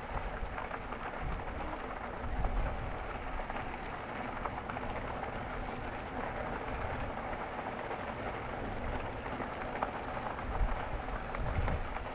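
E-bike tyres rolling on a packed gravel trail: a steady crackling hiss, with wind buffeting the microphone in a few gusts.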